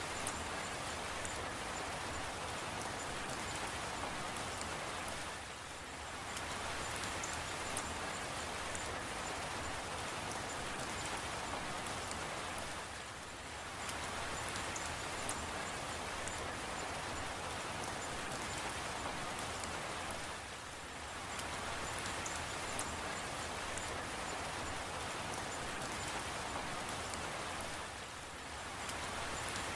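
Steady rain, a dense even patter of drops, that eases briefly about every seven and a half seconds.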